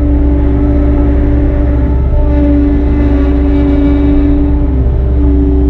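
Engine of a bucket-equipped construction machine running steadily with a droning hum.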